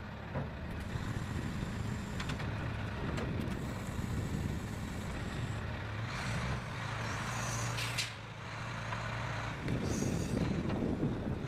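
Engine of a heavy stump-pulling machine running steadily under load, with a few sharp knocks and crackles as the stump and roots are worked.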